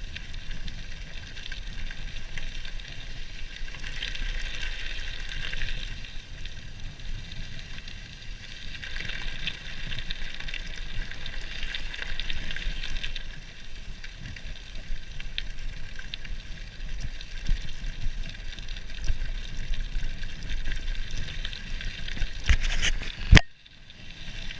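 Gravel bike tyres rolling and crunching over soft gravel, an even crackling hiss over a low rumble. A single sharp click comes near the end.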